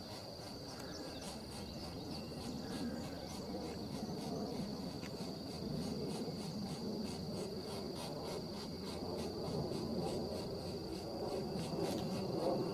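Insects trilling steadily, a cricket-like high buzz pulsing several times a second, over low background noise.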